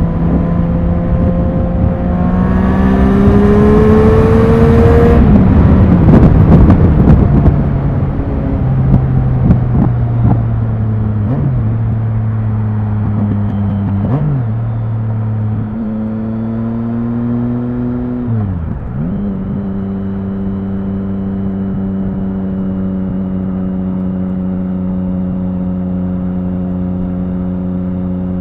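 Triumph Speed Triple 1050's three-cylinder engine pulling up through the revs under acceleration, then crackling as the throttle closes. It runs on at lower revs with a few brief dips in pitch, then settles to a steady note for the last part.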